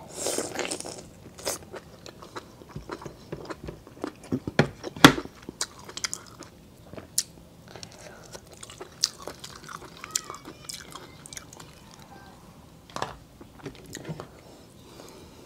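Close-miked biting and chewing of lobster meat, with scattered sharp clicks and crackles as the lobster shell is handled.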